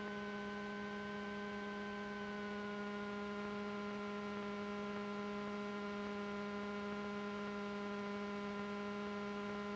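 Steady electrical hum in the cockpit audio feed, a low buzzing tone with several overtones; one of the higher tones sags slightly in pitch about two seconds in.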